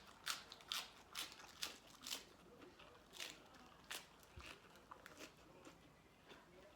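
A person chewing and biting crunchy food close to the microphone, a string of crisp crunches about two a second that thin out and fade in the second half.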